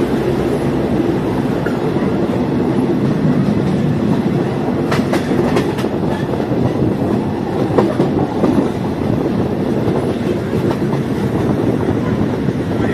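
Diesel multiple unit train running along the track: a steady rumble with the wheels clicking over rail joints, most sharply in a cluster about five seconds in and again near eight seconds.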